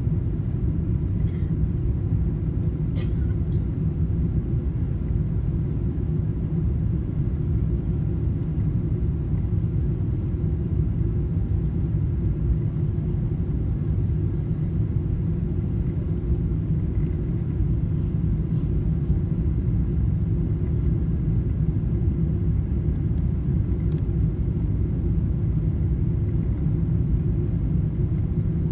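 Steady low rumble of cabin noise inside a Boeing 777-300 airliner.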